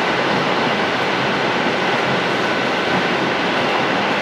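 Steady running noise of a moving electric commuter train, heard from inside the carriage: wheels rolling on the rails, with a faint steady whine over it.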